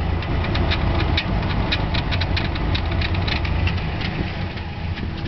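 1997 Ford Ranger engine idling roughly, putting unevenly, with a steady low rumble broken by many irregular sharp ticks. This is the rough running the owner takes for a possible misfire, unsure whether a vacuum leak or a blocked muffler is behind it.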